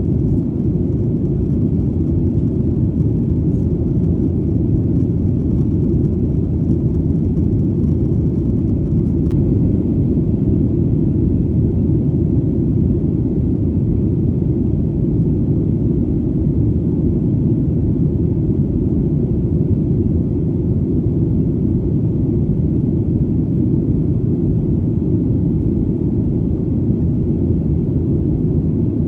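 Airplane in flight: a steady, deep engine and airflow drone with no change in level.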